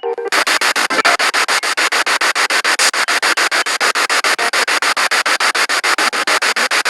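Spirit box radio sweeping through the band: hissing static chopped into rapid, even pulses, about ten a second, as the tuner jumps from station to station. It cuts out briefly at the very start.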